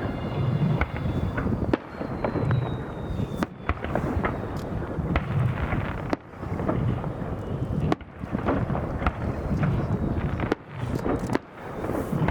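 Aerial fireworks bursting in rapid succession: a dense crackle over a low rumble, broken by several sharp, loud bangs a second or two apart.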